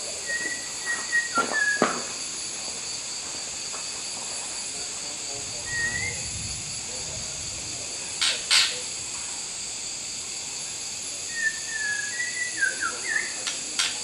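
White-rumped shama giving sparse, short whistled notes: a few near the start, one around six seconds, and a quick run of them near the end, with two sharp, loud clicks a little past halfway. A steady high hiss runs underneath.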